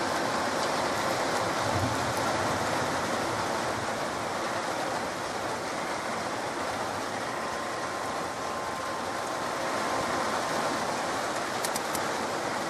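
Rain falling steadily during a thunderstorm, an even hiss with no thunder clap.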